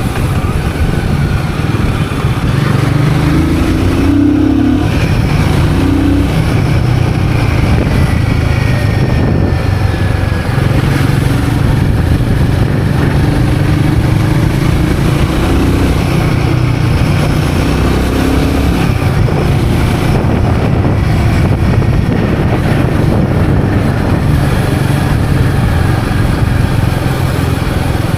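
Royal Enfield Guerrilla 450's single-cylinder engine running steadily as the motorcycle is ridden along the road, heard from on board.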